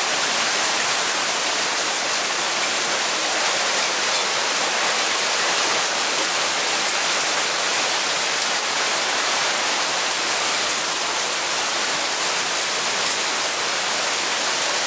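Steady rain shower falling, an even hiss of rain on the ground and leaves.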